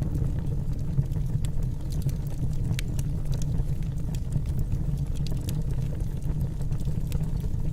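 Wood logs burning in a fireplace: a steady low rumble of flame with scattered sharp crackles and pops from the burning wood.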